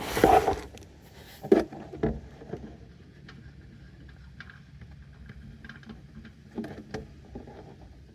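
Handling noise as an oil-filled plastic jug is moved into a bucket: a brief rustle, a sharp knock about a second and a half in and another shortly after, then a few light clicks and knocks over a faint steady low hum.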